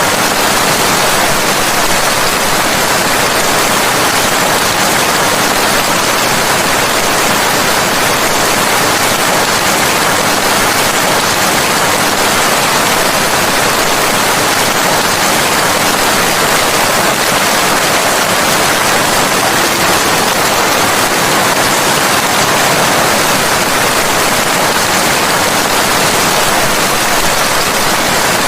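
Steady heavy rain: a dense, even hiss of falling rain with no single drops or thunder standing out.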